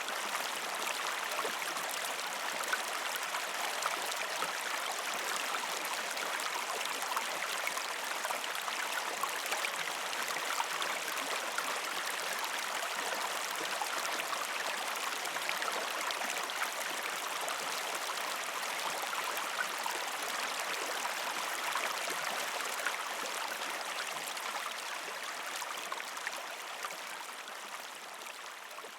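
A shallow river stream flowing over rocks, a steady rushing and babbling of water that fades out gradually over the last few seconds.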